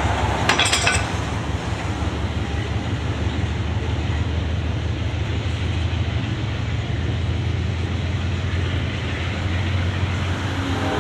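Freight train rolling slowly past under a speed restriction: a steady rumble of wheels on rail with a low hum. A short burst of high clicks comes about half a second in.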